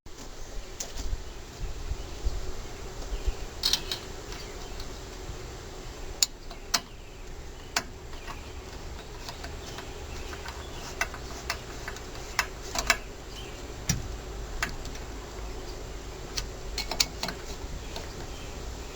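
Scattered light clicks and taps of tools and small engine parts being handled during carburetor reassembly, at irregular intervals, over a steady background hum with insects buzzing.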